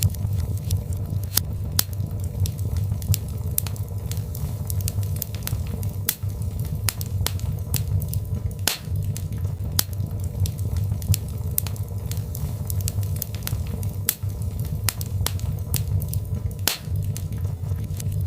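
Birch logs burning in a fireplace: a steady low rumble of flames with irregular crackles and pops, two sharper pops standing out, one about halfway and one near the end.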